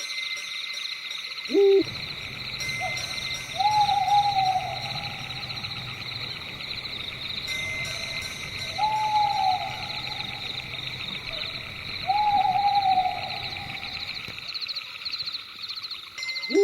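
Owl calling in a night forest ambience: a short, sharp call falling in pitch about a second and a half in, then three drawn-out hoots a few seconds apart. Underneath runs a steady, high-pitched pulsing chorus.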